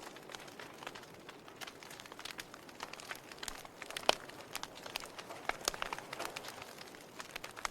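Log fire crackling: irregular sharp pops and snaps from burning wood over a soft steady hiss of flames, with one louder pop about four seconds in.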